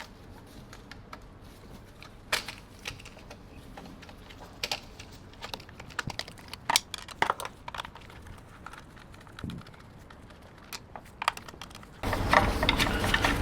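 Hands handling small parts and tools: irregular light clicks and taps. A steadier background noise comes up near the end.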